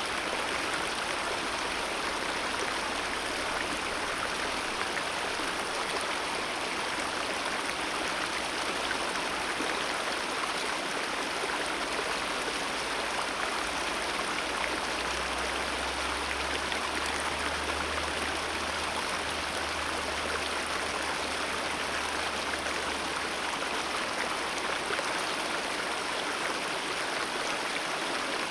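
Mountain river flowing in a steady, even rush of water.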